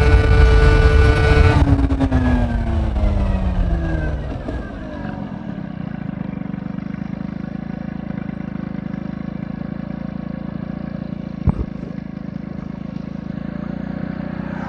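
Honda Spree two-stroke scooter engine with an aftermarket S23 exhaust, held at high revs, then the revs fall away over about three seconds as the throttle is closed, settling into a steady low idle. A single short knock about two-thirds of the way through.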